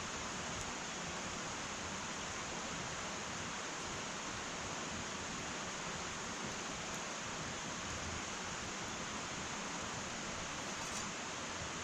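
Wood fire burning in an irori hearth: a steady hiss with a few faint crackles, the clearest near the end.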